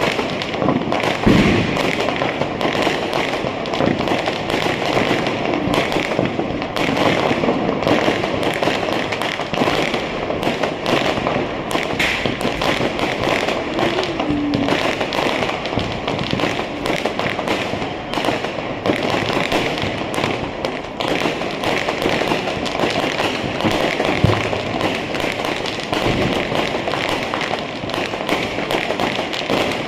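Diwali firecrackers going off in a dense, continuous crackle of rapid pops, with a couple of louder bangs standing out, one about a second in and another about three-quarters of the way through.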